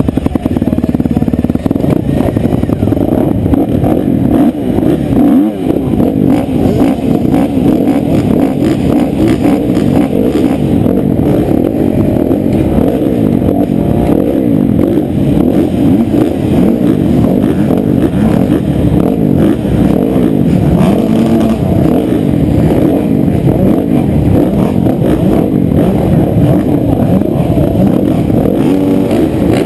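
Motocross bikes racing flat out, led by the close sound of a Honda CRF250's four-stroke single-cylinder engine revving hard under acceleration.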